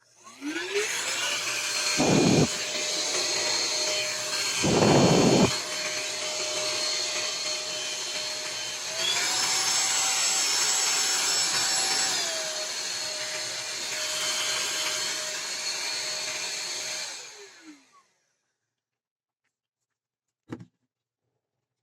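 Baseus handheld cordless car vacuum cleaner switched on: its motor spins up to a steady high whine with rushing air, with two loud bursts of rushing noise about 2 and 5 seconds in. The pitch steps up for a few seconds mid-way and drops back, then the motor winds down after about 17 seconds, followed by a single click near the end.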